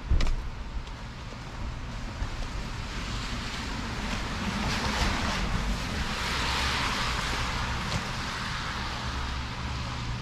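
City street traffic: a passing vehicle's tyre noise swells to a peak a little past the middle and fades, over a steady low engine hum. A sharp thump right at the start.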